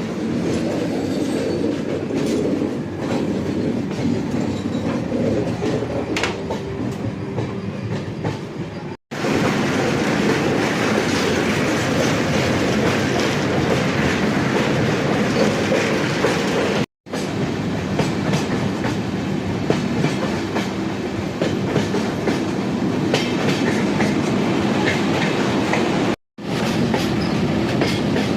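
Passenger train running along the track: a steady rumble of wheels on rail. It breaks off abruptly three times, for an instant each.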